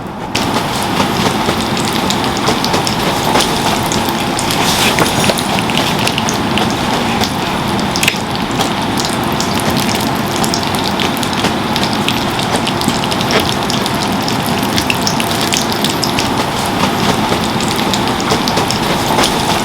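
Heavy rain falling steadily, a dense hiss dotted with many sharp ticks of individual drops striking.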